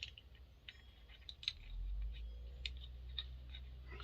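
Faint, scattered light clicks and ticks of small metal chainsaw engine parts being handled. A low steady hum comes in about a second and a half in.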